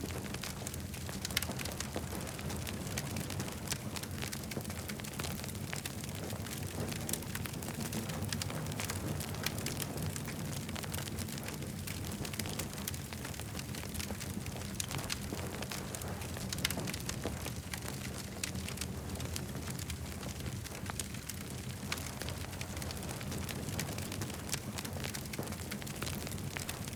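Wood campfire burning: a steady low rumble of the flames with frequent, irregular sharp crackles and pops from the burning wood.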